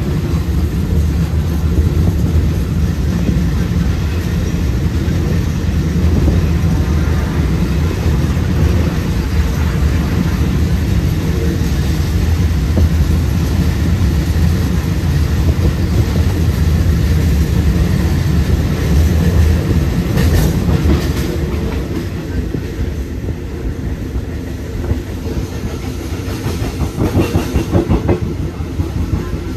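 Train running on the rails, heard from aboard: a steady low rumble with wheel clatter. It eases off somewhat about two-thirds of the way through, and there is a quick run of clacks near the end.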